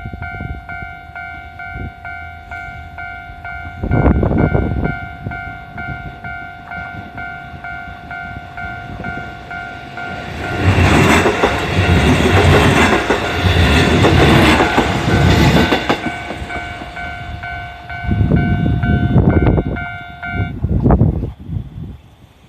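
A Japanese level-crossing warning bell rings steadily with a pulsing two-tone ding. A three-car KiHa 11 diesel railcar train passes midway, its wheels clattering over the rail joints for about five seconds. The bell stops near the end.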